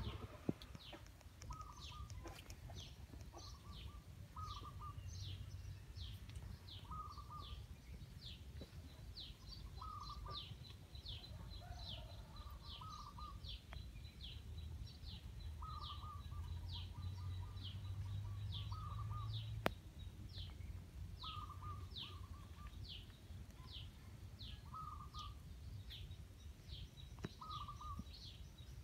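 Birds calling: one keeps up a steady series of short, high, falling chirps, about one to two a second, while another repeats a short, lower warbled phrase every few seconds. A low rumble runs underneath, with a single sharp click about two-thirds of the way through.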